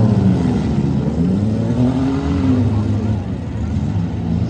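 Demolition derby cars' engines running and revving, with one engine's pitch rising and then falling about halfway through.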